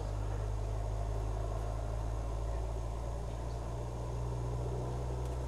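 Car engine idling, a steady low hum with no change in pitch.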